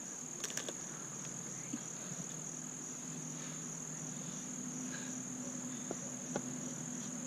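Steady high-pitched trill of crickets, with a few faint knocks. A low hum comes in about two and a half seconds in.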